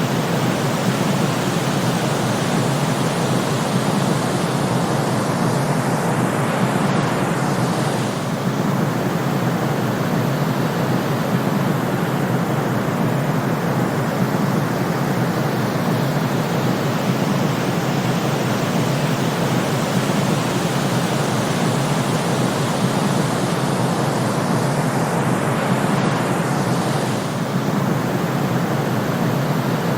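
Steady white-noise sleep track: a constant, even hiss, weighted toward the lower and middle range. A faint sweeping swell and a slight dip come about 7 seconds in and again near the end.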